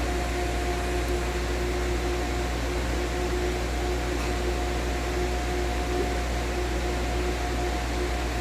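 Steady hum of refrigeration machinery running: a low drone under a constant whine, with a second, fainter tone below it that wavers slightly.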